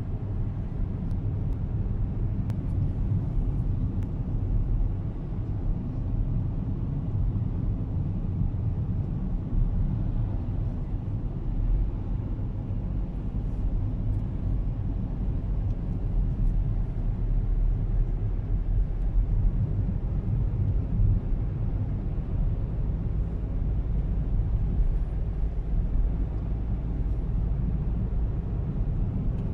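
A car driving: steady low rumble of road and engine noise.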